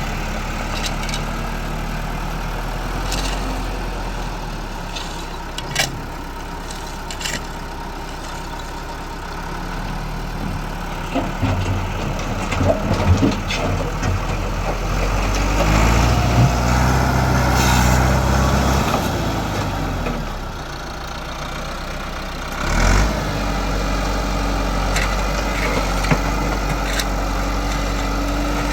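Tractor engine running steadily, picking up in speed and loudness for a few seconds around the middle, then settling back. A few knocks and clanks are heard, including a louder thump about two-thirds of the way through.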